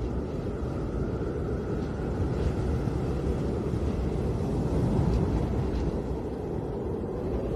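Snowstorm wind blowing steadily as a deep rushing rumble, with a faint whistling tone above it.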